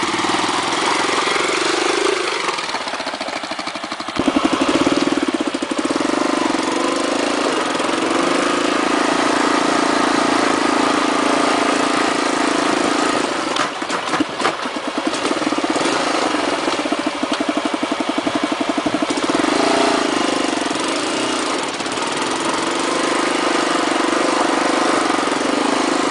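Rented ATV's engine running steadily as it climbs a dirt track, with wind and road noise over it and a short burst of knocks and rattles about halfway through.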